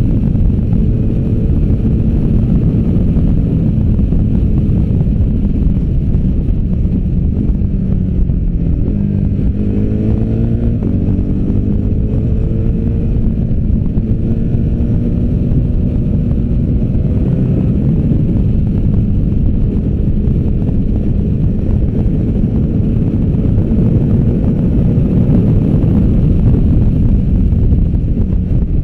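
A large V-twin adventure motorcycle engine under hard riding, its pitch rising and falling as it pulls and backs off. About nine to eleven seconds in it climbs in quick steps through the gears. Heavy wind rush on the microphone runs underneath.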